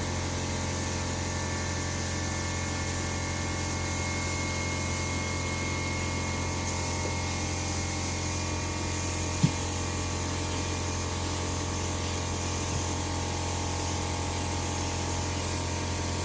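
Paint spray gun hissing steadily as it lays down a silver base coat, over a steady low hum. One short click comes about nine and a half seconds in.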